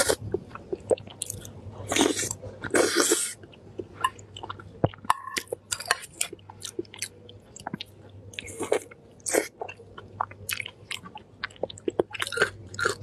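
Close-miked chewing of spicy meat: irregular wet mouth clicks and smacks, with longer noisy bursts about two and three seconds in and again near the end.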